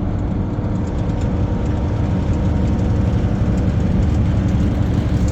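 Steady drone of a semi-truck's diesel engine and road noise, heard inside the cab while cruising on the highway.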